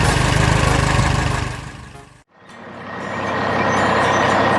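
Low, steady vehicle engine rumble fades out to a brief silence about halfway, then truck and street traffic noise fades in with a steady high tone.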